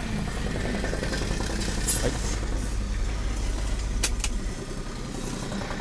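Turbocharged kei-car engine in a classic Mini body, warm and idling steadily. Two sharp clicks come about four seconds in, and the low engine rumble drops away soon after.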